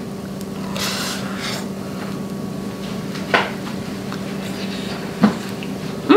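A person chewing a mouthful of fried rice wrapped in roasted seaweed, with quiet rubbing mouth noises and two short sharp mouth sounds, over a steady low hum.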